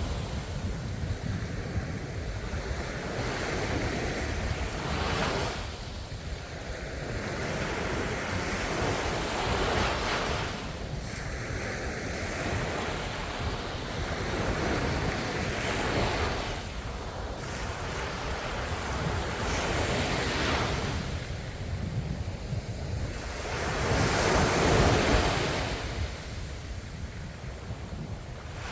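Ocean waves breaking and washing up the shore, the surf swelling and ebbing every four to six seconds.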